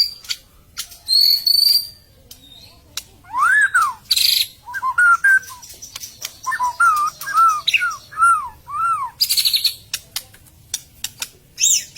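White-rumped shama (murai batu) singing a loud, varied song. It opens with a high clear whistle, then a run of arched rising-and-falling whistled notes, broken twice by harsh buzzy bursts.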